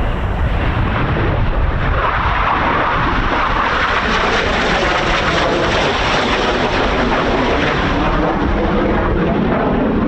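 Jet noise from Red Arrows BAE Hawk T1s' Adour turbofans as they pass: a loud rushing roar that swells about two seconds in and sinks lower in pitch near the end as the jets go by. Wind buffets the microphone underneath.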